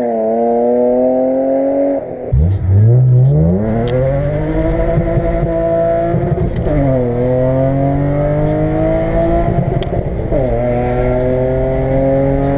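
BMW E36 M3's straight-six engine under hard acceleration. First the car is heard pulling away down the road, then from inside the cabin, its note climbing through the revs and dropping back at two upshifts, about six and a half and ten seconds in.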